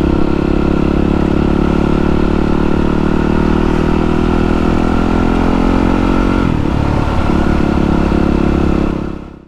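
Yamaha WR450F's single-cylinder four-stroke engine running at steady revs under riding. The revs drop slightly about six and a half seconds in, and the sound fades out near the end.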